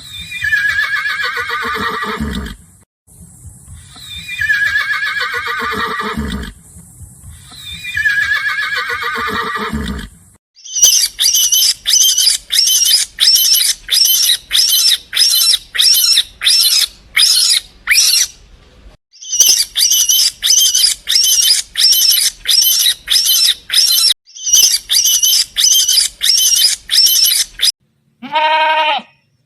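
A sequence of animal calls: three long, quavering horse whinnies that fall in pitch, then a long run of short high-pitched calls about two a second, then one brief bleat near the end.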